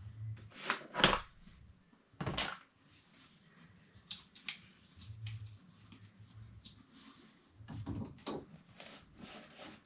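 Metal tools and copper pipe parts being handled: a few sharp clinks and knocks, the loudest about two seconds in, then scattered lighter clicks.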